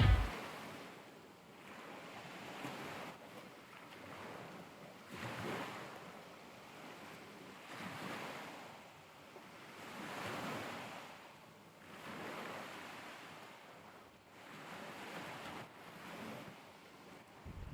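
Ocean surf breaking on a beach, the wash of the waves swelling and fading about every two to three seconds.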